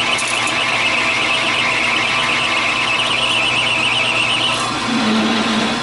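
Metal lathe taking a 40-thou-deep turning cut: a steady high-pitched screech from the cutting tool over the hum of the machine, stopping about four and a half seconds in. A short low hum follows near the end.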